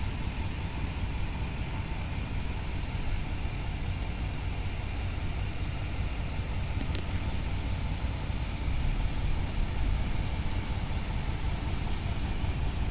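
Engine of a carpet-cleaning truck-mount rig running steadily, a continuous low hum with an airy hiss, and a faint click about seven seconds in.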